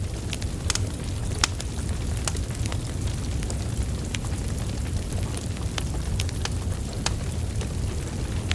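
Wood fire burning steadily with a low rumble, broken by frequent irregular sharp crackles and pops from the burning logs.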